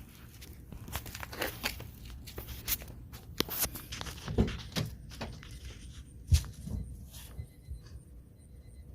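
Scattered knocks, clicks and rustles of things being handled, with one sharper knock about six seconds in.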